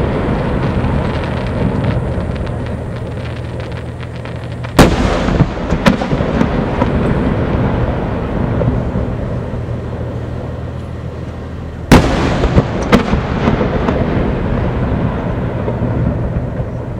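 Aerial fireworks finale: a continual rumble and crackle of shell bursts, with two loud sharp bangs about five and twelve seconds in, each followed by a smaller bang a second later.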